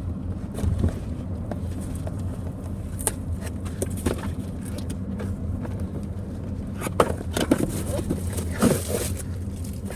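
Steady low rumble of a car cabin, with scattered knocks, clicks and rustling as the plastic parts of a flowing-somen machine are handled and taken out of the box.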